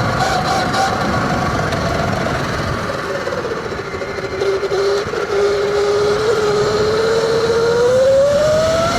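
Sur-Ron Light Bee electric dirt bike whining as it rides. The whine drops in pitch as the bike slows, holds low for a few seconds, then rises again near the end as it speeds up, over a steady rushing noise.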